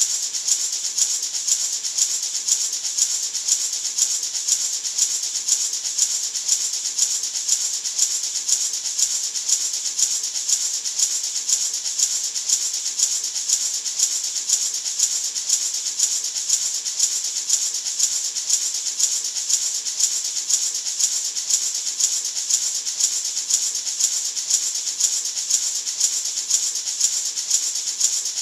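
Gourd maraca shaken in a steady, even rhythm: a continuous high hissy rattle of seeds inside a dried gourd shell.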